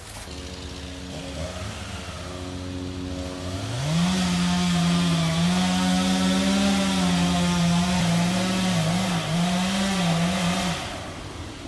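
Chainsaw idling, then revved up about four seconds in and held at high speed, as in cutting into a tree trunk, with a couple of brief dips in speed before it drops back off near the end.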